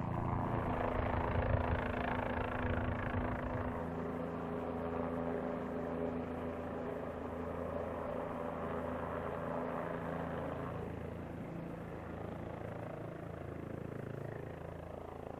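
Fire-X unmanned helicopter (Bell 407 airframe) in flight, its rotor and turbine engine running steadily as it slows toward a hover. The sound is loudest in the first few seconds and eases a little later on.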